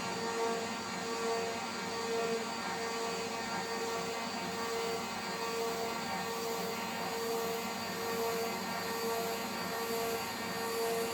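CNC router spindle running at high speed with a 3 mm three-flute end mill cutting aluminium: a steady whine with many overtones, and a tone that swells and fades about once a second as the cutter moves through its passes.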